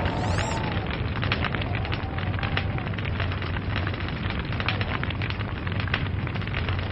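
Log fire crackling: a dense, irregular run of small sharp pops from the burning wood over a steady low rumble of the flames.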